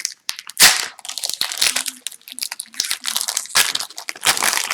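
Upper Deck hockey cards and their packs being handled, crinkling and rustling in irregular bursts, loudest about half a second in.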